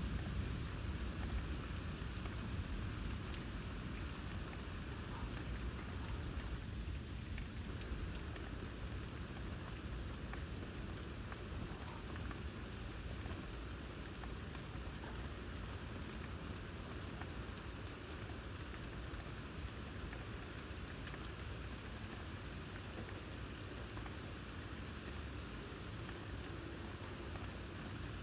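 Steady rain falling, with fine patter of drops striking a surface. A low thunder rumble fades out over the first couple of seconds.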